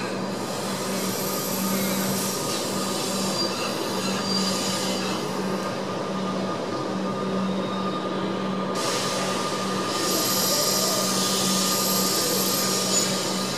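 Electric suburban train at a station platform: a steady electrical hum, with high-pitched wheel and brake squeal coming and going, strongest in the second half.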